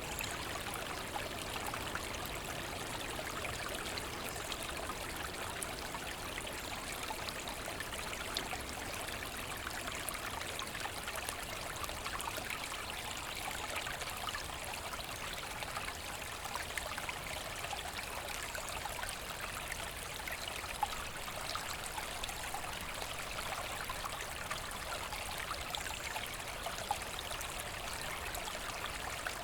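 Forest brook flowing and trickling over stones, a steady babble of water with small splashes.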